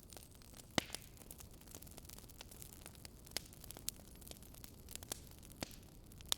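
Wood fire crackling: scattered sharp pops at irregular intervals over a soft, steady hiss.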